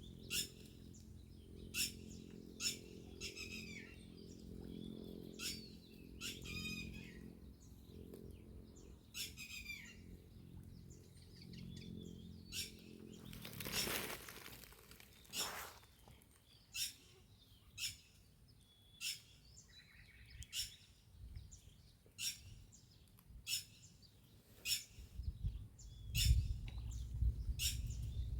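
Birds calling in short sharp chirps, about once a second, over a low steady hum that fades out about halfway through. A brief rushing noise comes a little past the middle, and a low rumble near the end.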